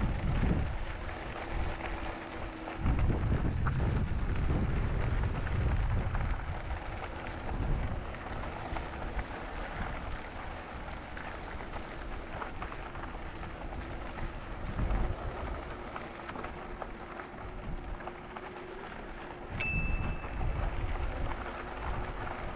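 Wind buffeting the microphone and tyre rumble during an e-bike ride, with gusty low rumbles and a faint steady hum underneath. A single short, high metallic ping comes near the end.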